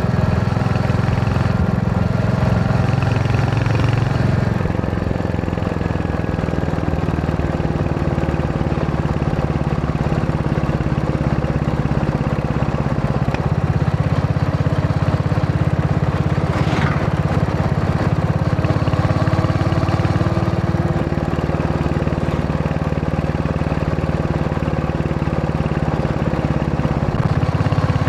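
Royal Enfield Hunter 350's single-cylinder engine running steadily under way. Its note shifts up and down several times as engine speed changes.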